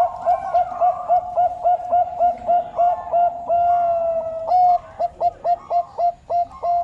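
Zebra dove cooing: a fast series of short, clipped notes at about four a second, broken by one longer held note around the middle.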